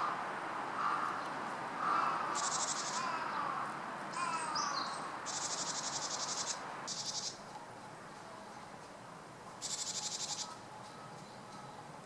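Japanese tit giving harsh, buzzy calls in five short bursts, the third and longest lasting just over a second. Softer, lower slurred notes come in the first few seconds.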